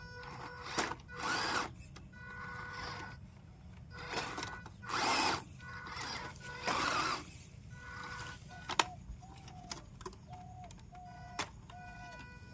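Small electric motor of a toy RC car whining in short bursts of throttle, with rushes of noise as it drives over rough ground and a few sharp clicks.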